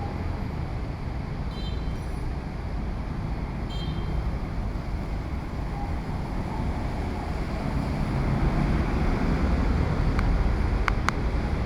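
Steady street traffic noise with a low rumble of wind on the microphone, growing louder about eight seconds in. A few short high beeps come about two and four seconds in.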